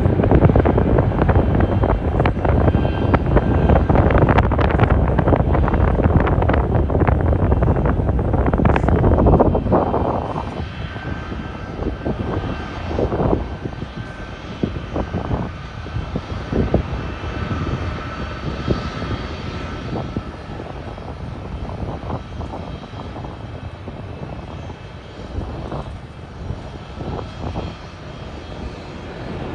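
An airliner's jet engines run loud and close for about the first ten seconds, then fade to a quieter drone with a faint steady whine as the plane moves away.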